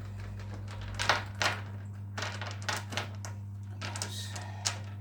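Gravel clicking and rattling in irregular bursts as an aquarium gravel vacuum is worked through the tank bed, over a steady low hum.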